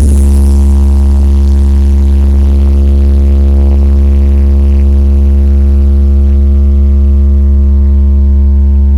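Large sound system playing one long, steady, deep bass note with a stack of overtones, very loud, starting abruptly.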